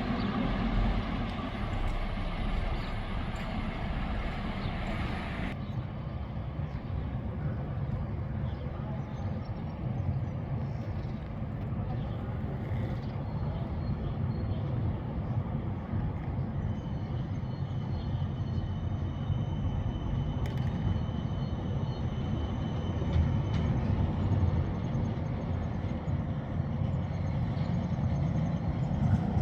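Street traffic of buses and trams. A passing vehicle is loud for the first five seconds or so and stops abruptly, leaving a steady low rumble of running engines. A faint high whine comes in around the middle.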